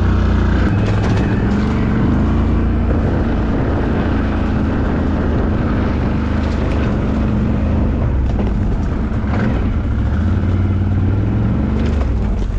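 ATV engine running under load while riding over rough terrain, its drone rising and falling a little with the throttle, with a few knocks and clicks along the way.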